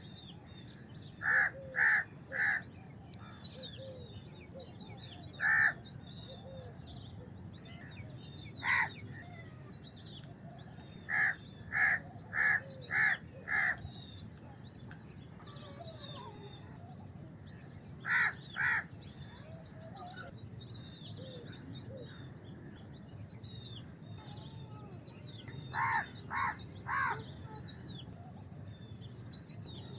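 House crows cawing: loud, short caws in runs of one to five, with pauses of a few seconds between runs. Continuous high twittering of smaller birds goes on underneath.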